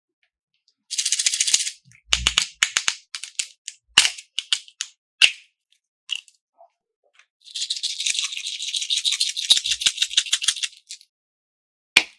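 Rapid sharp clicking and rattling of small hard pieces, in a dense run of about a second near the start and a longer run of about three seconds in the second half, with single clicks and knocks scattered between.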